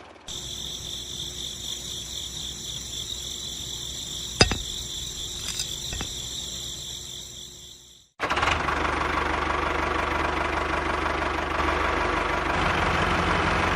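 A steady, high, wavering chirr with one sharp click partway through, then, after an abrupt cut, a steady engine-like running noise with a low hum.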